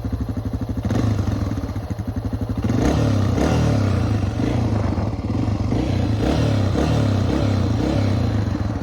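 Dirt bike engine idling with an even pulse, with a brief blip of throttle about a second in. From about three seconds in it runs louder, its revs rising and falling.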